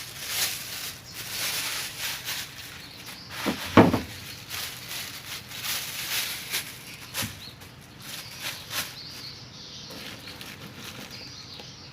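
Light rustling and small clicks of dry swiftlet nests being handled and sorted during grading, with one louder thud about four seconds in.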